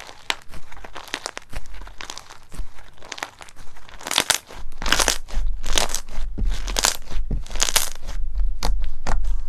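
Crunchy slime being pressed and worked, giving many sharp crackling crunches. From about four seconds in, louder bunches of crunches come roughly once a second.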